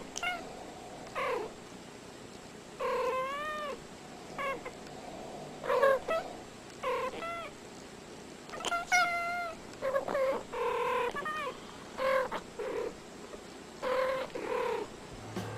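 A domestic cat meowing over and over, about a dozen short calls, some bending up and down in pitch.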